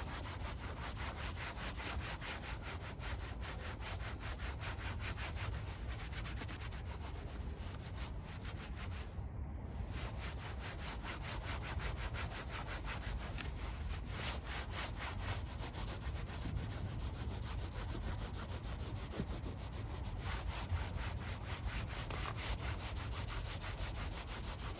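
Hand scrubbing of ground-in dirt on a truck part after spraying it with cleaner: rapid, steady back-and-forth rubbing strokes, with a brief pause about nine seconds in.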